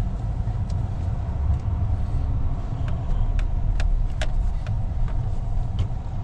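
Steady low rumble of a vehicle running, heard from inside the cab, with scattered single sharp ticks at irregular intervals.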